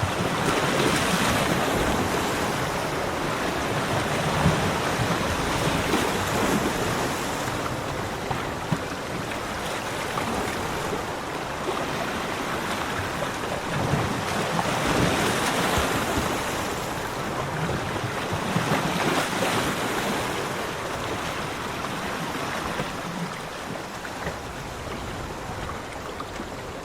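Sea waves breaking on a beach and washing back, a continuous rushing surf that swells and eases every few seconds.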